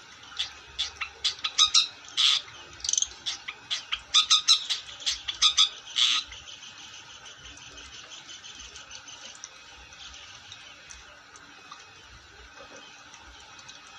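Long-tailed shrike (cendet) singing: a rapid run of loud, harsh, scratchy notes for about six seconds, then a much quieter continuous twittering chatter.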